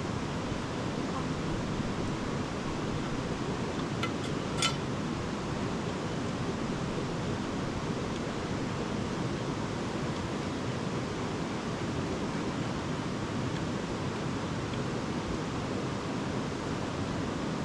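A river rushing steadily, with a couple of faint clicks about four seconds in.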